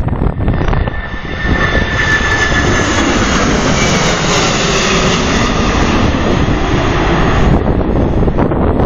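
Jet engines of a Boeing 767-300ER passing close on landing approach, a loud steady rush with a faint high whine for about six seconds. Wind buffets the microphone at the start and again near the end.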